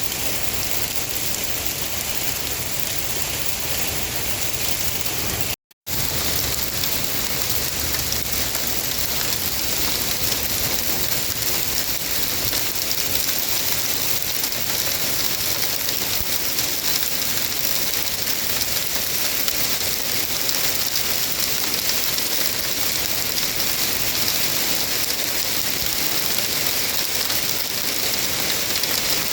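Heavy rain pouring steadily, with a momentary drop-out about six seconds in, after which it comes back a little denser and hissier.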